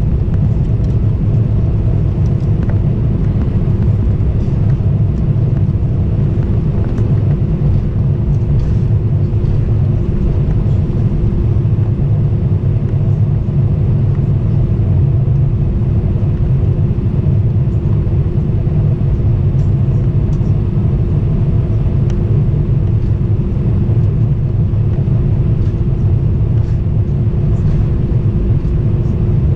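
Steady low rumble with a constant hum, unchanging throughout, like the running noise heard inside a moving vehicle's cabin; a few faint ticks sit over it.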